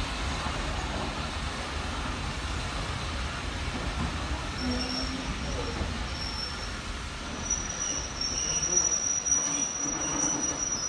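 Train of coaches drawn by an SE&CR O1-class steam locomotive rolling slowly into the station, with a low rumble. About halfway in, a thin high squeal starts and holds as the train brakes to a stop.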